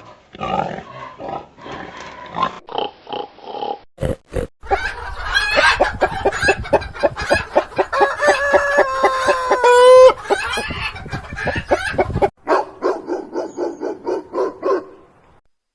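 Pigs grunting, then a dense run of rapid grunts with a drawn-out squeal on top that rises and cuts off abruptly, followed by a quicker series of short grunts.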